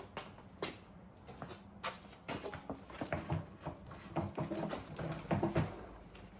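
Irregular clicks, knocks and clatter of hard objects being handled, some knocks ringing briefly, over a faint steady hum.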